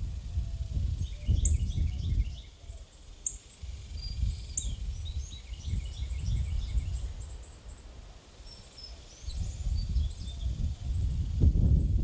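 Small birds chirping and twittering in many quick, overlapping calls, over a low rumbling noise that swells and fades and is loudest near the end.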